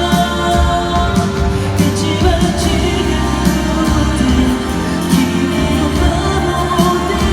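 A male singer performing a pop song live over a backing track with steady bass and drums.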